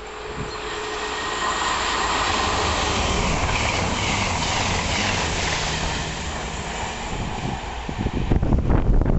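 A high-speed passenger train running through the station close by: the rush of wheels and air swells to a peak a few seconds in, then fades away. Near the end the sound rises again with loud, low, uneven buffeting.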